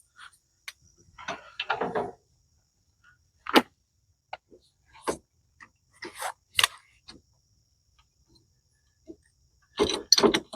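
Metal parts and hand tools clinking and clattering as lawn tractor hardware is handled and fitted: a series of separate clicks and short rattles, the sharpest about three and a half seconds in and a cluster near the end.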